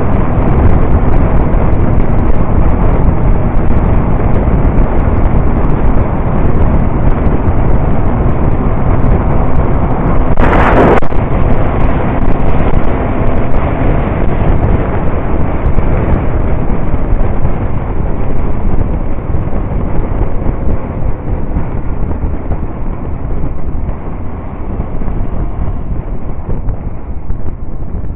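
Motorcycle on the move: loud wind rush on the microphone over the engine's running noise, with a brief sharp burst of noise about ten seconds in.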